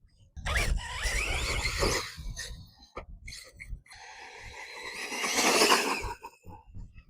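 ARRMA Typhon 6S RC buggy's brushless motor whining as it is driven hard in two bursts, the pitch rising with the throttle, with a few sharp knocks between the bursts. The second burst is the louder, building to its peak shortly before it cuts off near the end.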